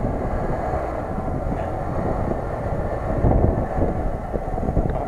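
Lada Niva 4x4's engine running as it works in snow, a low steady rumble that grows a little louder a little past halfway.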